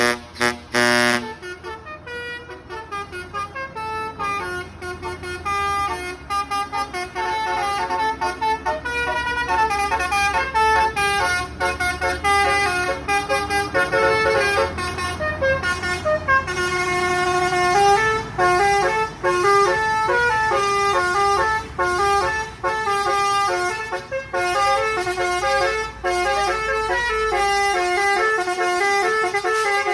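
Truck's musical horn playing a running melody of steady, stepped notes over the low hum of the engine.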